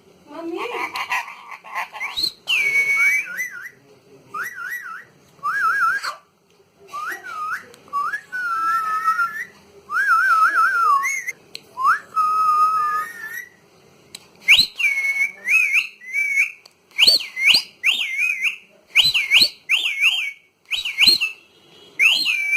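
Pet parrot whistling: short whistled phrases that glide up and down, in bursts with brief pauses between them. From about two-thirds of the way in, the whistles become short, sharp calls coming roughly one a second.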